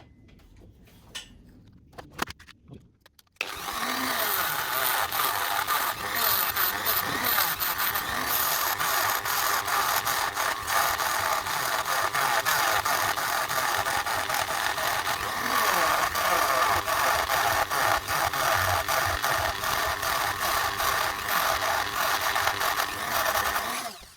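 A small power tool grinding down the ends of a Märklin HR 800 N model locomotive's axles, which were too long and made the running gear bind. The grinding starts about three and a half seconds in and runs steadily, after a few faint clicks.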